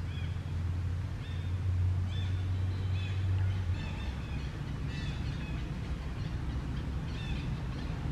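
Small birds chirping in short, repeated arched notes, over a steady low hum that drops lower about four seconds in.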